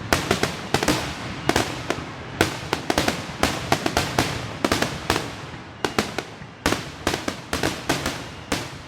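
Fireworks going off in quick succession: a dense string of sharp bangs and crackles, several a second, with no pause.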